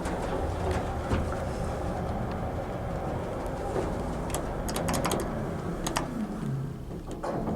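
Lift in motion: a steady low hum and rumble, with a quick run of sharp clicks about two-thirds of the way through and a low motor tone falling in pitch near the end as the car slows.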